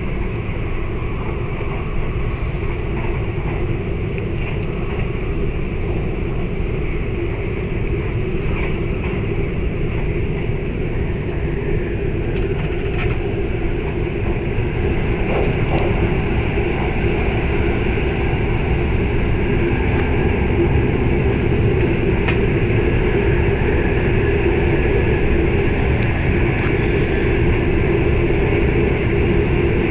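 Running noise of an E4 series Shinkansen heard inside the passenger cabin: a steady rumble and rush of wheels on rail, with a few faint ticks. It grows louder over the second half.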